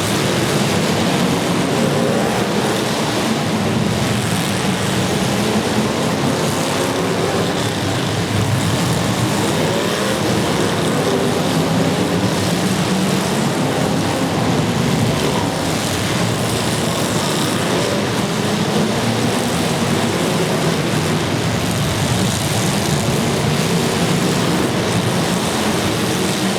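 Several demolition derby cars' engines running and revving at once: loud, continuous engine noise whose pitch keeps wavering up and down.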